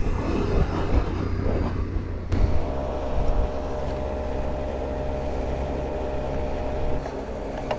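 Motorcycle on the move, with engine and wind rumble. After a sudden cut comes a steady hum with a held tone for about four and a half seconds, a petrol station fuel pump dispensing into the motorcycle's tank, which stops about seven seconds in.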